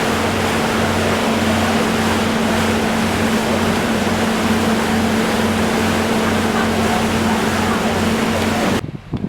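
Ship's engine running: a steady drone with a low throb pulsing about twice a second, under a loud rush of wind and water. It cuts off abruptly near the end.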